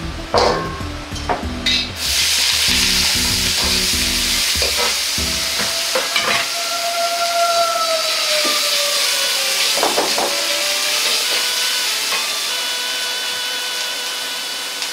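Sliced sausages sizzling loudly in hot oil in a carbon-steel wok. The sizzle sets in suddenly about two seconds in, and a metal ladle clanks against the wok a few times as they are stirred.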